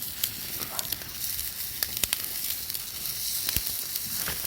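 Wood fire crackling: sharp irregular pops over a steady sizzling hiss.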